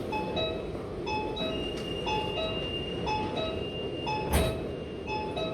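Metro train's door-closing warning signal: a two-note electronic beep, high then low, repeating about every 0.7 s over the rumble of the train. A single sharp thump comes about four seconds in.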